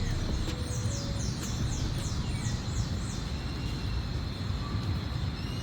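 A bird singing a run of quick, repeated high notes, each falling in pitch, about two a second, which stop about halfway through. Beneath it runs a steady low rumble and a thin, steady high tone.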